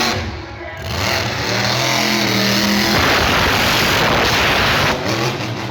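Monster truck engine revving hard, its pitch climbing over the first few seconds, then a loud even roar from about three seconds in to near the end.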